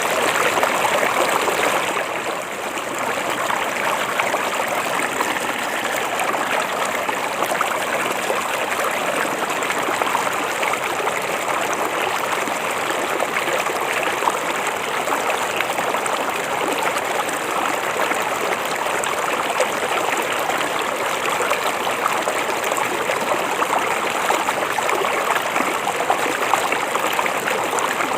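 Shallow river or stream flowing over rocks with a steady rushing and babbling, with a brief dip in level about two seconds in.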